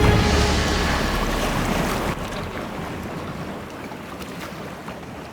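Wind buffeting the microphone and waves rushing past a sailboat under sail in rough water. The sound fades out gradually.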